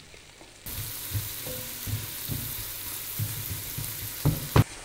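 Diced onions and bacon strips sizzling in hot oil in a pot as they are sweated, with a spatula stirring them. The hiss starts suddenly about a second in, and two sharp knocks come near the end.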